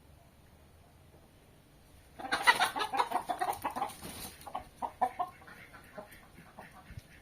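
Chickens clucking: quiet at first, then a sudden flurry of rapid calls about two seconds in, thinning to scattered clucks.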